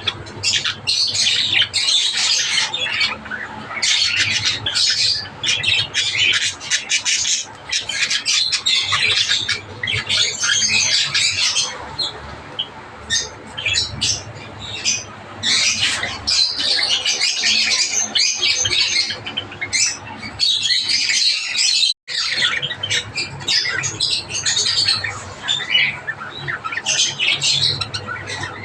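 A group of Java sparrows (Java finches) chirping and calling continuously in dense, overlapping bursts. The sound drops out for an instant about 22 seconds in.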